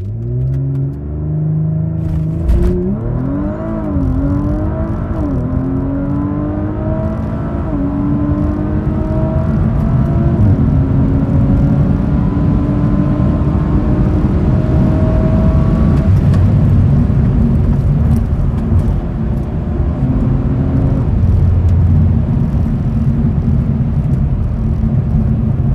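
A 2019 Audi RS5's 2.9-litre twin-turbo V6 accelerating flat out from a standstill, heard from inside the cabin. Its pitch climbs and drops back at several quick upshifts in the first six seconds, then climbs more slowly in the higher gears under a loud, steady rush of wind and tyre noise at over 100 mph.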